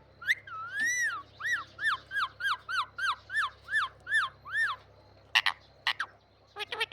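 A ringneck parakeet calling: a run of about a dozen short, clear notes, each rising and falling in pitch, about three a second, followed by a few sharp short calls and a quick chatter near the end.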